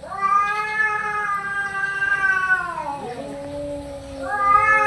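Cats yowling: long, drawn-out wavering threat yowls of a cat standoff. One yowl is held for about three seconds and then drops in pitch as a lower yowl carries on, and a new rising yowl starts near the end.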